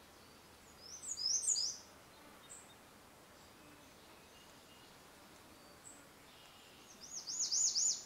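Songbird singing two short, high-pitched phrases, one about a second in and one near the end; the second is a quick run of rising-and-falling notes. A couple of faint chirps come between them over a steady background hiss.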